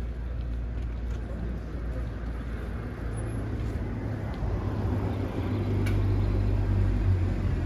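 Street traffic: a motor vehicle's engine running nearby with a steady low hum, growing louder over the second half.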